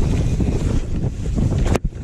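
Wind buffeting a camera microphone on a downhill mountain bike at speed, with jolts and rattles from the rough trail. A sharp knock and a sudden brief drop in level near the end.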